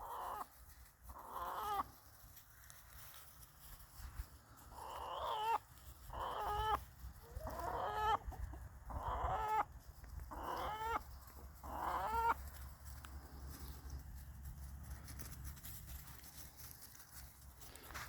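Chicken hen calling: a run of about seven drawn-out, pitched calls, each under a second and spaced a second or two apart, fading out about two-thirds of the way through. It is the excited calling of a hen that has grabbed a mouse, called "singing" as she runs with it.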